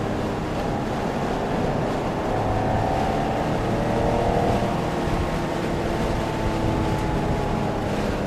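Porsche engine with wind and road noise heard from inside the cabin while driving; the engine note climbs about two to four seconds in, then eases back to a steadier, lower pitch.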